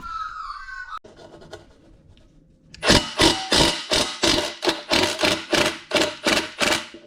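Impact gun working on a BBS RS three-piece wheel's assembly bolts: a run of sharp metallic knocks, about four or five a second, starting about three seconds in.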